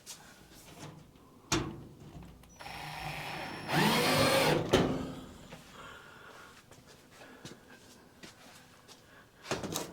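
Power drill running for about two seconds in the middle, as the flap is fastened back onto the furnace's plenum ductwork. It ends in a sharp click, with a knock before it and a few light clicks near the end.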